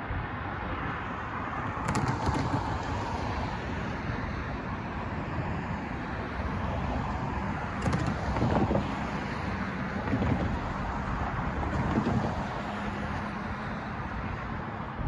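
Freight train rolling past, a steady rumble and rush of wheels on rail with heavier thuds every few seconds, and wind buffeting the microphone.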